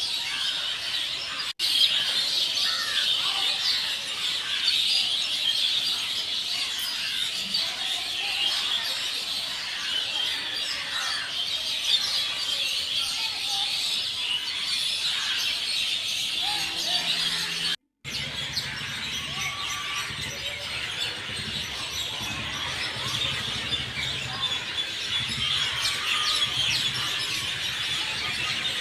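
A dense chorus of many birds chirping and calling without a break. The sound drops out briefly twice, and a low hum joins in after the second dropout.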